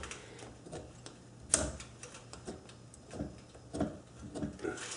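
Faint, irregular small metal clicks and ticks of a steel scriber being worked against the cast-iron lathe casting to mark a scribe line, with one sharper click about a second and a half in, over a faint low hum.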